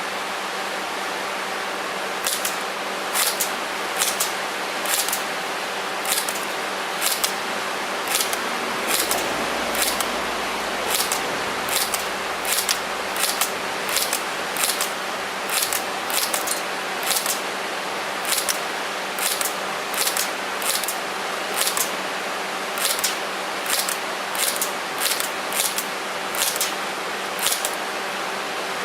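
Airsoft gun firing shot after shot: sharp snaps at roughly one to two a second, starting about two seconds in, over a steady hiss and faint hum.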